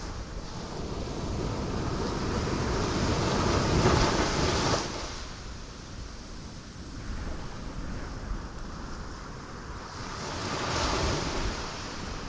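Ocean waves breaking on rocks: one wave builds to a loud crash about four seconds in and falls away sharply, and a smaller wave breaks near the end.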